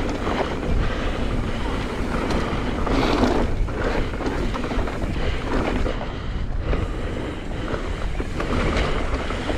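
Wind rushing over the microphone with tyre roar and rattling from a mountain bike riding down a dirt singletrack trail, with scattered knocks from bumps.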